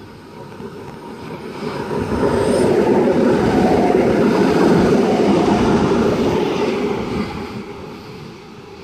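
Electric passenger train running through a station platform without stopping. The rumble of the train builds over a couple of seconds, stays loud for about four seconds as the cars go past, then fades away.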